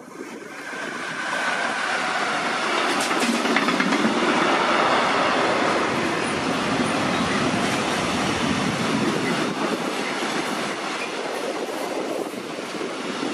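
Freight train of loaded steel-coil wagons and sliding-tarpaulin wagons passing close by, its wheels rolling and clattering over the rails. The sound swells over the first couple of seconds, then stays loud with a run of sharp clicks from the wheels.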